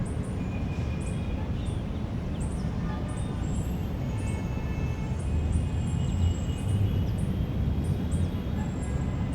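Park ambience: small birds chirping, short high downward calls about twice a second, over a steady low rumble of city noise.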